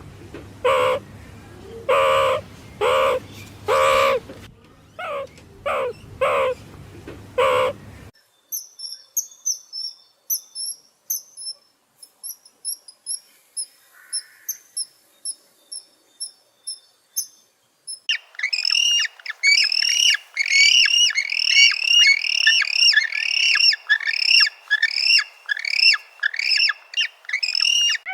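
Animal calls in three runs: first a string of short pitched calls repeated about once a second for some eight seconds, then rapid faint very high chirps, then a dense run of quick downward-slurring calls, much louder, from about eighteen seconds in.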